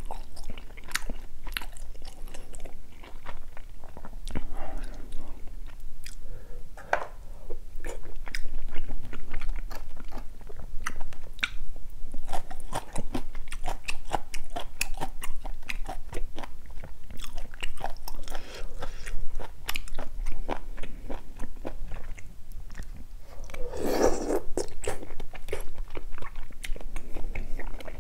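Close-miked chewing and biting of spicy beef-intestine stew: a steady run of wet mouth clicks and smacks, with one louder, fuller mouth sound near the end.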